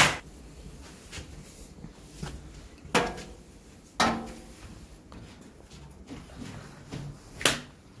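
Sharp knocks and clunks of a washing machine's parts and cover being handled: four hits, the two in the middle about a second apart and ringing briefly.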